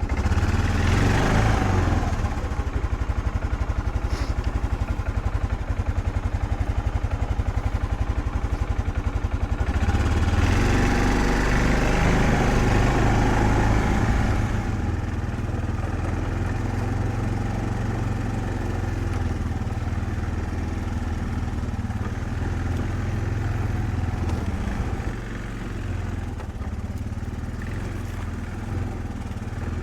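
An engine running steadily with a low rumble. It swells about a second in and again for several seconds mid-way, then settles lower.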